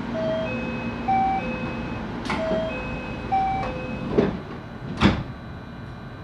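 Door chime of a JR West 223-series train, a few alternating notes played twice, as the passenger doors slide shut. There are three knocks as the doors close, the loudest near the end.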